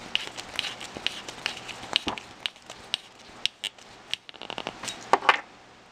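Irregular small clicks and ticks of a 2 mm hex driver and plastic RC suspension parts being handled while a screw is tightened, with a brief cluster of louder clicks about five seconds in.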